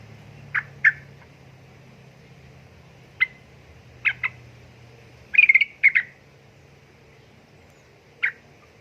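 Yellow-vented bulbul (trucukan) giving short, sharp call notes: a pair near the start, single and paired notes after, a quick rattling cluster about five and a half seconds in, and one last note near the end.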